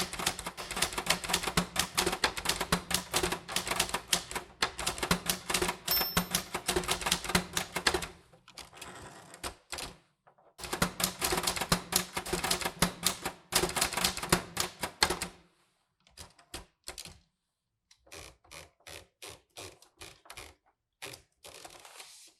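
Typewriter keys striking in fast runs of clicks, broken by a short pause, then slowing to sparser, quieter strokes near the end.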